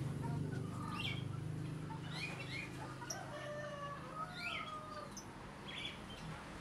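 Young pigeons (squabs) squeaking: a series of short, high chirps and peeps, scattered irregularly, with a few longer thin squeals between them.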